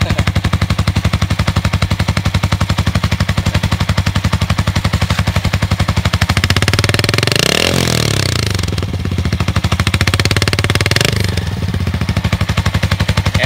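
Yamaha Sniper 150 single-cylinder four-stroke engine idling through an aftermarket Akrapovic exhaust, an even rapid popping beat. About six seconds in it is revved up, held higher for a few seconds, then drops back to idle.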